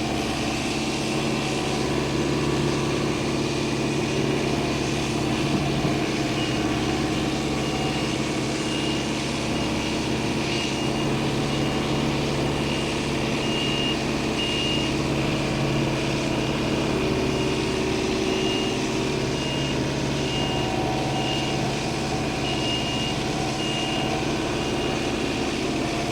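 Heavy equipment's engine running steadily, with its backup alarm beeping in spells as the machine reverses.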